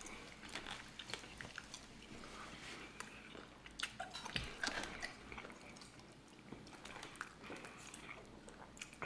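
Faint chewing and eating sounds, with scattered small clicks of a fork against a plate.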